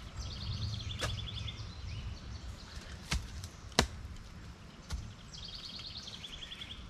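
A short-handled shovel chopping into dirt: four sharp strikes, two of them close together about three to four seconds in. A small bird sings a fast trill twice, once near the start and once near the end.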